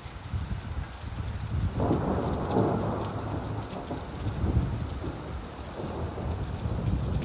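Steady rain with a low rumble underneath. About two seconds in, a roll of thunder swells suddenly and fades away over several seconds.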